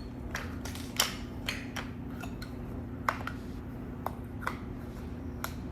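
Irregular light clicks and taps of toy train track pieces being handled and pulled apart, about ten over a few seconds, over a steady low hum.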